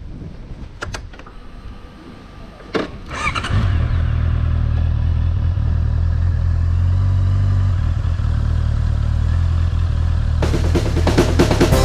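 Honda CBR motorcycle engine starting about three and a half seconds in, after a few clicks, then idling steadily with a low even note. Background music comes in near the end.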